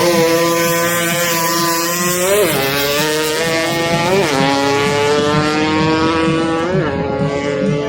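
A race vehicle's engine at full throttle down a drag strip. Its note climbs steadily and drops at each upshift, three times.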